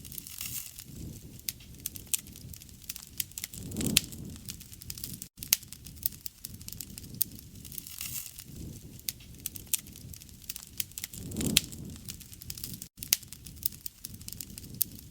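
Campfire burning: wood crackling and popping in frequent sharp snaps over a low, soft rumble of flame that swells twice. The sound drops out for an instant twice.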